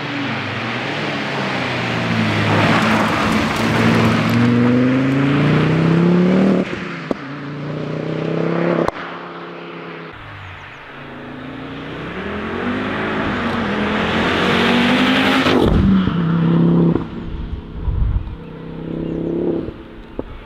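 Ford Focus RS Mk2's turbocharged 2.5-litre five-cylinder engine accelerating hard. The revs climb and drop back several times as it shifts through the gears, and the note breaks off sharply a couple of times.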